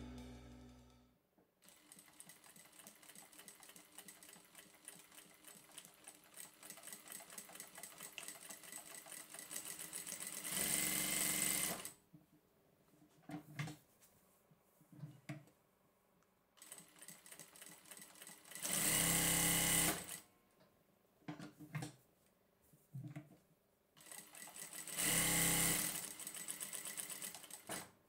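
Mauser Spezial ML8121-E01-BC single-needle lockstitch industrial sewing machine sewing quietly, its stitching steady and fast. It speeds up in three louder spells of a second or two, with short starts and stops between them.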